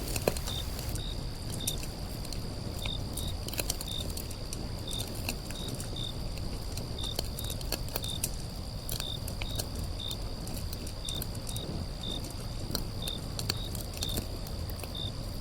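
Nature ambience of insects chirping: short high chirps repeat about twice a second over a steady high hum, with scattered light crackles and a low rumble beneath.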